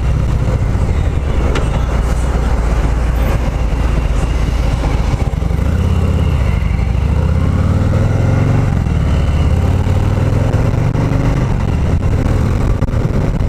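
Harley-Davidson Milwaukee-Eight 114 V-twin running steadily and loud under way on a Heritage Classic, with road and wind noise.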